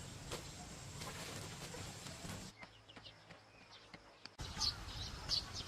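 Scattered sharp knocks over a steady outdoor background, then, after an abrupt quiet stretch with a low hum, birds chirping in short high calls near the end.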